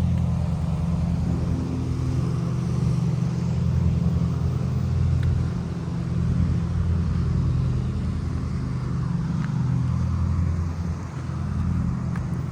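Gas lawn mower engine running steadily nearby, a low, even drone that swells and dips slightly in loudness.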